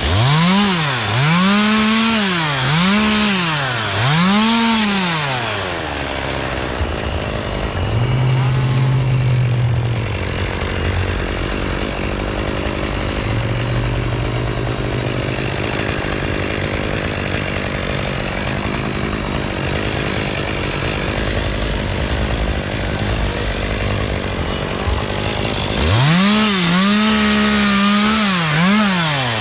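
Gas chainsaw revving up and down in quick repeated surges at the start and again near the end, with a stretch of lower, steadier running in between.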